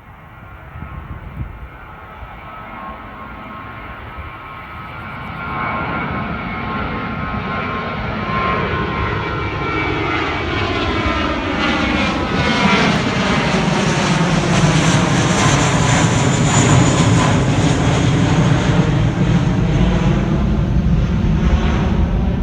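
An airplane's engines grow steadily louder as it approaches and passes close by, with a sweeping, phasing tone in the middle of the pass. The sound stops abruptly at the end.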